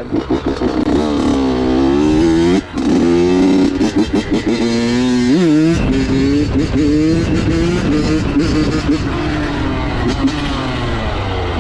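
Honda CR85 85 cc two-stroke dirt bike engine under riding load, its revs rising and falling with the throttle. The revs drop sharply for a moment about two and a half seconds in, and climb quickly then fall away near the middle, as the throttle is chopped and opened for a wheelie.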